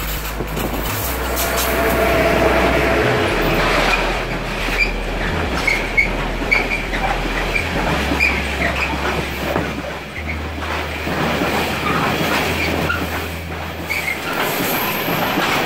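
Electric-hauled freight train of bulk-container wagons passing close by: a continuous rolling rumble of steel wheels on rail, with scattered clicks and short, high wheel squeals through the middle of the pass.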